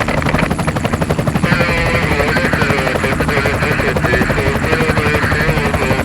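Motorcycle engine running steadily while riding, its pitch wavering slightly up and down with the throttle.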